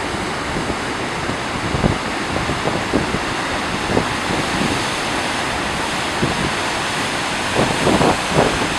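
Goðafoss waterfall rushing in a steady roar of falling water, with wind buffeting the microphone in short gusts.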